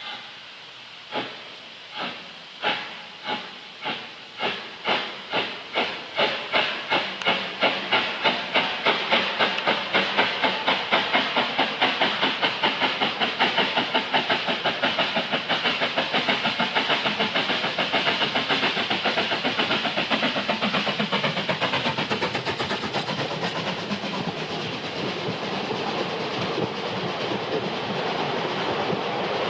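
Saxon VI K narrow-gauge steam tank locomotive 99 713 working a ten-coach train. Its exhaust beats start slow, about one a second, then quicken and grow louder until they run together into a fast, steady chuff. Near the end a lower rolling rumble from the train's wheels comes in.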